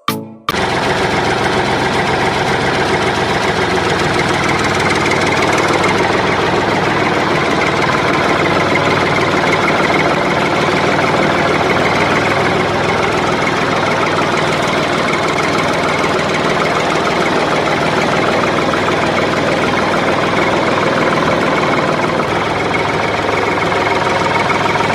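A small motor or engine running steadily, cutting in abruptly about half a second in.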